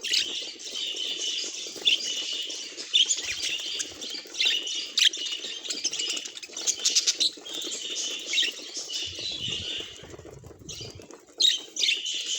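Budgerigar chattering and warbling: a fast, continuous run of short scratchy chirps and squeaks, with a brief pause about ten seconds in.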